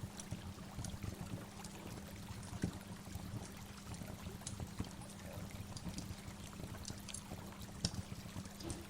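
Waterfall: water falling and splashing steadily, with many small sharp splashes scattered through it.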